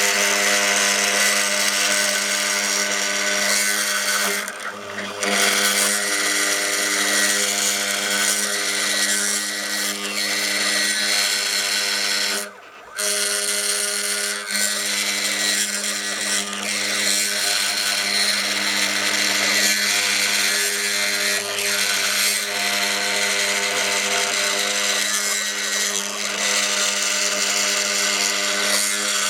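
Mini CNC machine spindle motor running while milling, a steady whine over a high hiss. The sound dips briefly about four and a half seconds in and cuts out almost completely for about half a second just past twelve seconds.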